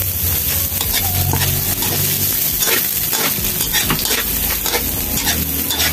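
Garlic and onion sizzling as they sauté in oil in a wok, with a spatula scraping the pan in repeated strokes as they are stirred.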